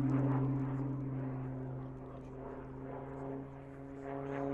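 Short Tucano T1's Garrett turboprop and propeller droning steadily in flight. It fades a little over the first couple of seconds, then swells again near the end.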